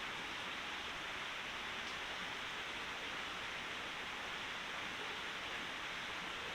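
Forest stream water flowing with a steady rush.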